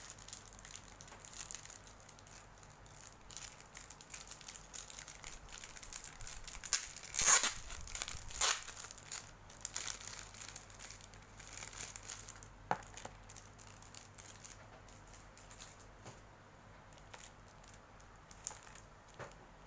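Plastic figure packaging crinkling and rustling as it is handled, in many short crackles, with two louder crackling bursts in the middle.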